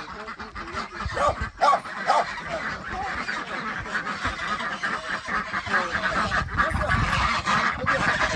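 Farm birds calling: a run of short, loud calls about one to two and a half seconds in, then more calls over a steady hiss.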